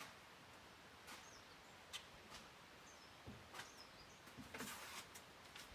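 Near silence: faint small-bird chirps with a few light clicks and knocks, and a brief rustle near the end.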